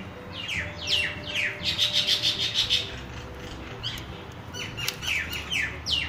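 Small birds chirping: a busy run of short, quickly falling chirps that thickens about two seconds in and picks up again near the end.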